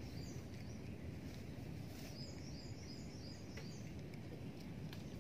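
Open-air ambience with a steady low rumble. From about two seconds in, a bird calls a rapid run of short falling chirps, about four a second.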